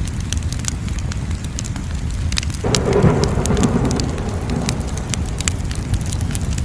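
Wood fire crackling with frequent sharp pops over a low rumble of flames. About two and a half seconds in, a sudden louder rushing surge sets in and fades out after about two seconds.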